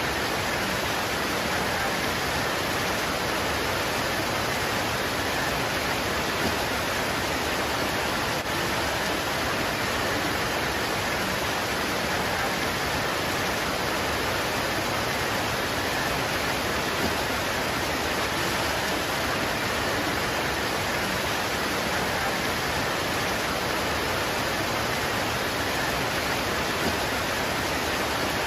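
Steady heavy rain pouring onto leaves, an even hiss with no let-up.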